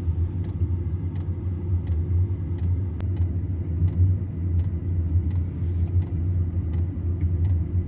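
Diesel heater running: a steady low rumble from its combustion fan, with the fuel dosing pump ticking about every two-thirds of a second.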